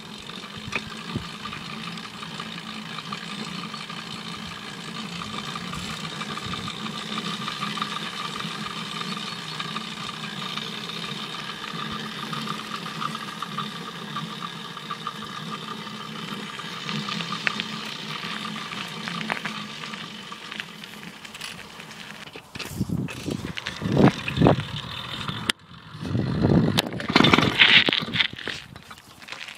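66cc Skyhawk two-stroke bicycle engine running at a steady speed under way. In the last several seconds it is broken by loud, uneven bursts of noise.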